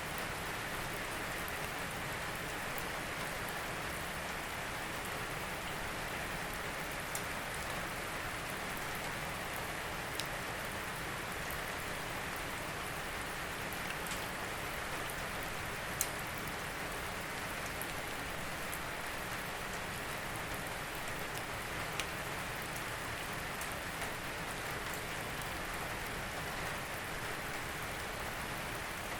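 Steady rain falling, an even hiss with now and then a single louder drop tapping close by, the clearest about sixteen seconds in.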